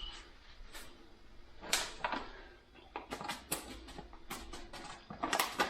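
Irregular light knocks, taps and rustles from handling a cut-open bottle gourd as its sprouted seedlings are worked at by hand. The knocks are loudest near the end.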